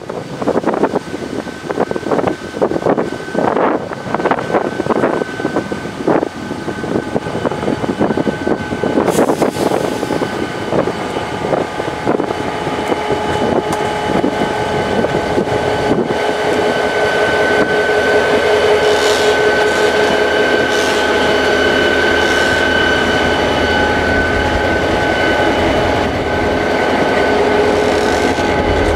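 EMD SD24 diesel locomotive passing close by with a passenger train, gusts of wind buffeting the microphone at first. From about ten seconds in, stainless-steel passenger cars roll past with a steady, rising wheel squeal over the rumble of the wheels.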